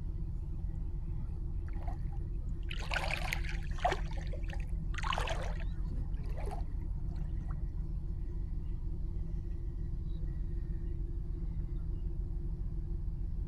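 Water splashing a few times, in brief bursts between about three and seven seconds in, over a steady low rumble.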